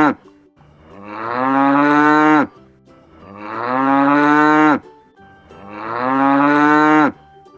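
Buffalo mooing: three long, drawn-out moos in a row, about two and a half seconds apart. Each one swells in loudness and ends with a quick drop in pitch.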